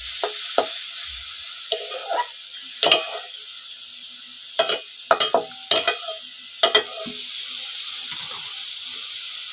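Sliced beetroot and carrot sizzling as they fry in a black iron kadai, with a metal spatula scraping and knocking against the pan as the mixture is stirred. The scrapes come thickest in the middle, and only the sizzle remains near the end.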